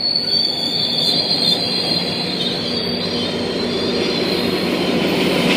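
Freight train rolling past on the rails, a steady rumble of the cars with a high, thin wheel squeal that fades out about three seconds in.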